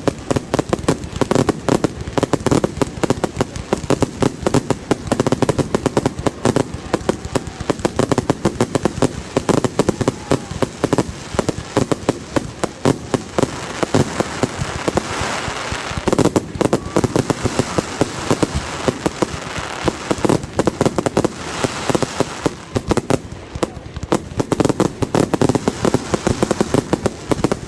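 Fireworks going off in a rapid, unbroken string of bangs and crackles, many per second.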